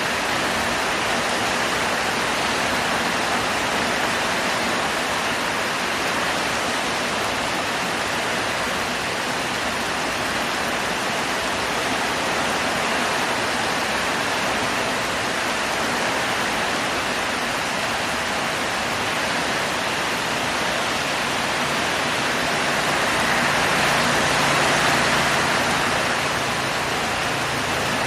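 Heavy rain pouring steadily in a dense, even hiss, growing a little louder for a few seconds near the end.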